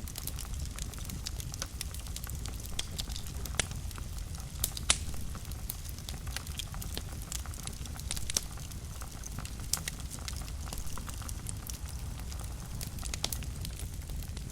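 Fire burning in a fireplace, crackling with irregular sharp pops over a steady low rumble of the flames; the loudest pop comes about five seconds in.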